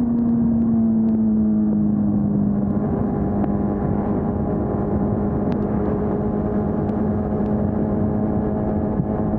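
2020 Honda CB400 Super Four's inline-four engine running steadily under way through its stock exhaust, its pitch easing down slightly in the first few seconds and then holding.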